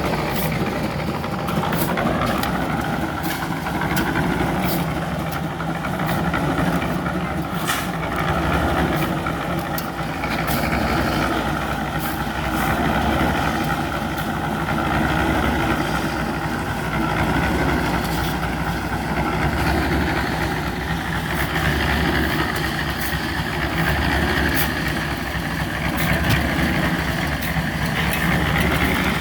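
Engine-driven construction machinery running steadily, its drone swelling and easing every couple of seconds, with scattered sharp clicks and clatter throughout.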